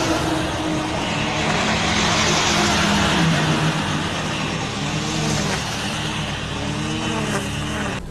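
A motor vehicle's engine running loudly under a dense rushing noise, its pitch rising and falling a couple of times in the second half.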